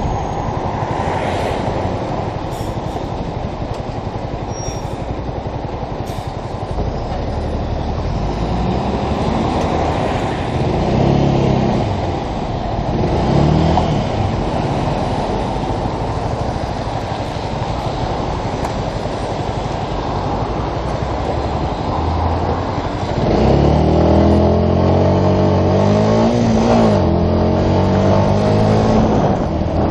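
The Yamaha YZF-R125's small single-cylinder engine running under a steady rushing noise, its pitch rising and falling as it accelerates and eases off. Its note gets louder and stronger from about three quarters of the way through.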